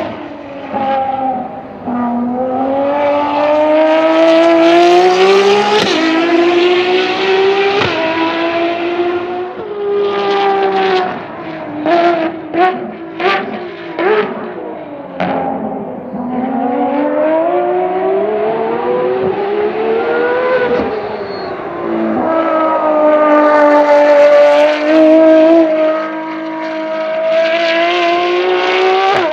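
Ferrari FXX K's naturally aspirated V12 under hard acceleration, its note climbing through the revs. In the middle come a rapid run of short sharp blips and pops as it downshifts, then it pulls up through the revs again and holds a high, steady note near the end.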